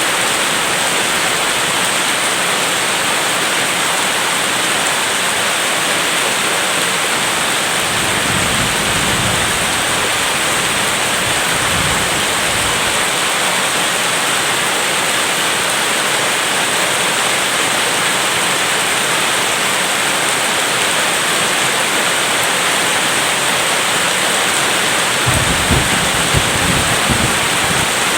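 Steady rain falling, with a low rumble of distant thunder about eight seconds in and again near the end.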